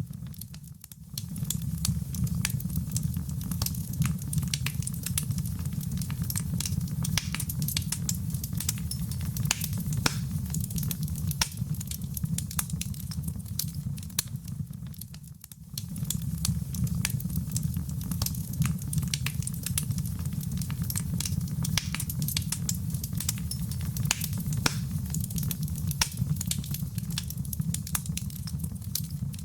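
Wood fire burning in a fireplace: steady, dense crackling and popping over a low rumble of flame. It dips briefly about a second in and again about halfway through.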